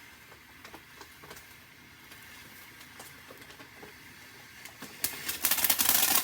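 Firework crackling: a sudden dense stream of rapid sharp pops breaks out about five seconds in, after faint scattered ticks.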